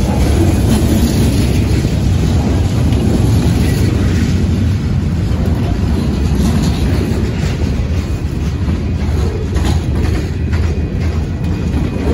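Freight train of boxcars and lumber-loaded flatcars rolling past: a steady, loud rumble of steel wheels on rail, with scattered clicks and knocks from the wheels and couplers.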